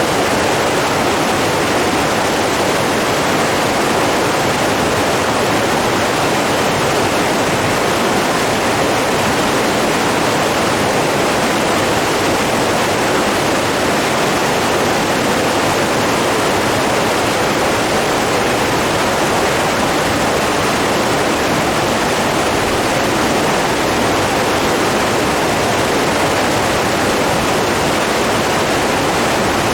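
Steady rushing of flowing water, like a stream or small waterfall, an even, unbroken noise with no change in level.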